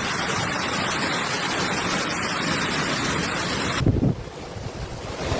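Storm noise: a steady rushing hiss that cuts off abruptly about four seconds in, giving way to gusty wind buffeting the microphone with low rumbles.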